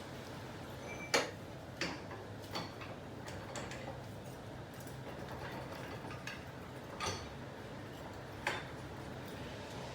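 Light, sharp clicks and taps, about seven of them at uneven spacing, over a faint steady hum.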